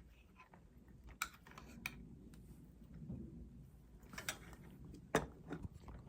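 Cat eating wet pate cat food: faint, scattered clicking and smacking of chewing and licking, a few sharper clicks a second or so apart.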